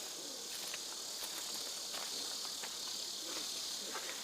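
Steady, high-pitched insect chorus, with a few faint scattered ticks.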